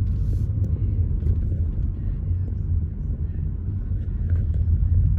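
Car driving at low speed: a steady low rumble of engine and road noise, heard from inside the cabin.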